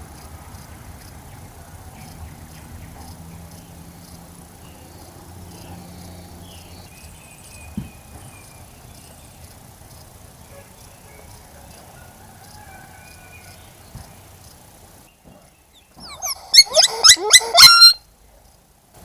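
Quiet garden ambience with faint bird chirps and a single click, then near the end a loud run of about ten quick, high-pitched animal calls lasting a couple of seconds.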